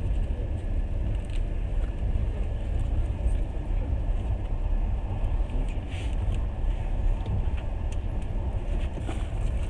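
Passenger train running, heard from inside the carriage: a steady low rumble with a few faint clicks scattered through it.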